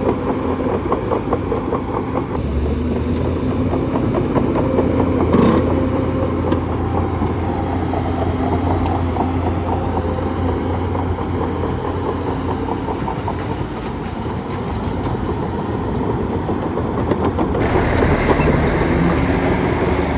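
Bulldozer engine running steadily, with a deeper hum setting in about two seconds in, a single sharp click midway, and a harsher, brighter note near the end.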